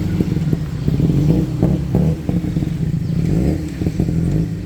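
Street traffic: a motor vehicle's engine running close by, a steady low hum with some clatter.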